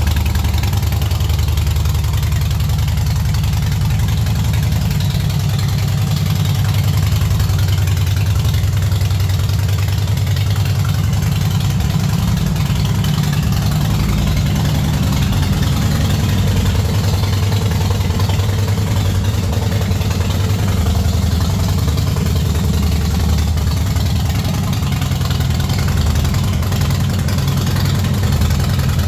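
Harley-Davidson Fat Boy's air-cooled V-twin idling steadily, a constant low pulsing exhaust note.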